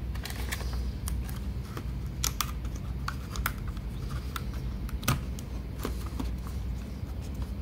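Irregular small clicks and taps of hands working on an opened laptop's internal parts, with one sharper click about five seconds in, over a steady low hum.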